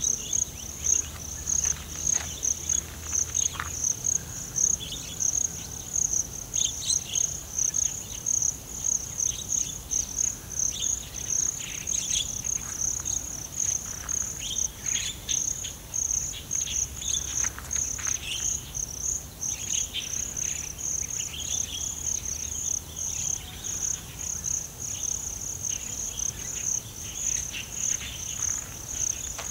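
Insects chirping in a steady, rapid, high-pitched pulsing chorus, with scattered short bird calls over it.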